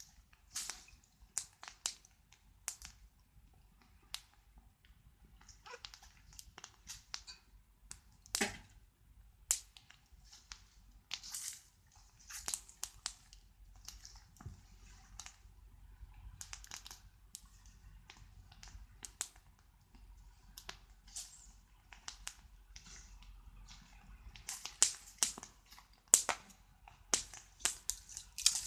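Wood fire crackling, with irregular sharp pops and snaps that come thicker near the end.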